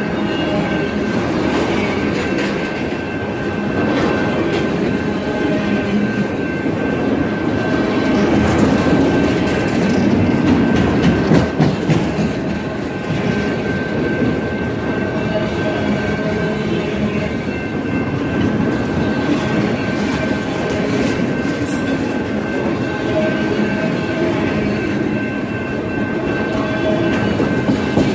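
Freight train of enclosed autorack cars rolling steadily past: a continuous rumble of steel wheels on rail with clicks and rattles, loudest for a few seconds about ten seconds in. A thin steady high tone sits over it.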